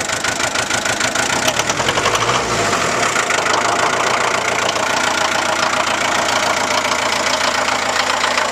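Diesel engine of a 40 hp four-wheel-drive Ford tractor running on its first start after sitting for years, a rapid even beat of firing strokes. Its sound shifts about two to three seconds in, then holds steady.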